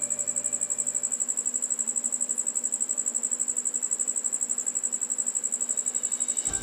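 A cricket chirping steadily: a high, evenly pulsing trill, about ten pulses a second.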